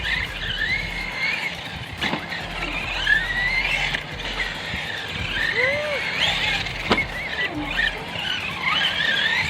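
RC cars driving on skate-park concrete: high-pitched motor whine and tyre squeal, wavering up and down in pitch as the throttle changes. There are two sharp knocks, about two seconds in and again near seven seconds.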